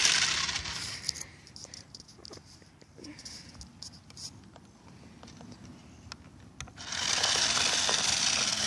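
Toy remote-control car driving: a noisy whir of its small motor and wheels fades out about a second in and comes back loud near the end, with scattered clicks and knocks in the quieter stretch between.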